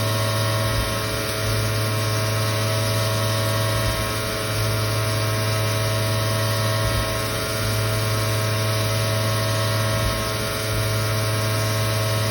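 2007 Victor V-Turn 36 CNC lathe running, a steady machine hum with several fixed tones over a strong low drone that dips briefly about every three seconds.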